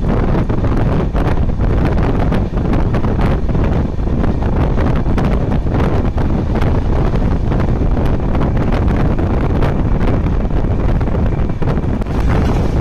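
Wind rushing over the microphone from an open door or window of a moving LHB passenger coach, with the wheels running on the track as a steady rumble and many short clicks.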